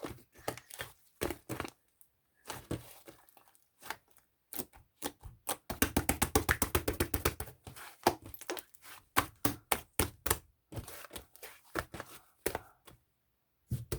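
Runs of quick, light taps or clicks with short pauses between runs, most rapid and tightly packed around the middle.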